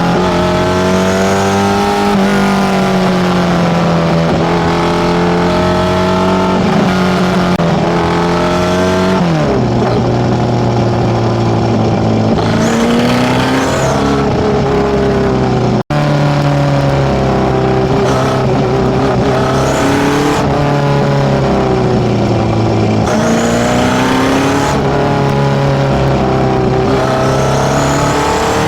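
Datsun B210's tuned A15 four-cylinder engine on FCR41 carburettors, running through a one-off 54 mm stainless steel exhaust, its revs rising and falling gently. The sound drops out for an instant about halfway through.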